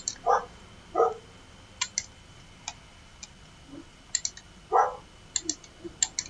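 Computer mouse clicks and keyboard key presses, sharp and irregular, while a dog barks three times: twice near the start and once near five seconds, the barks being the loudest sounds.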